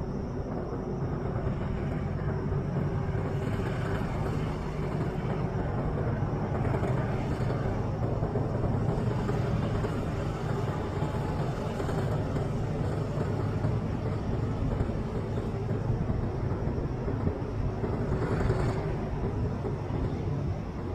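Train running steadily along the track, a continuous low rumble with a few brief brighter swells, the strongest near the end.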